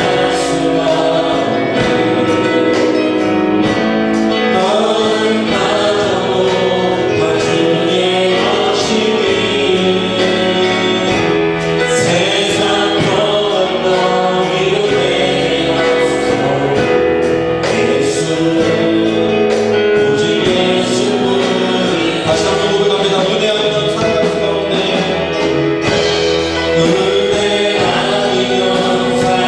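Congregation and worship band singing a Korean praise song together, with instruments and many voices at a steady level.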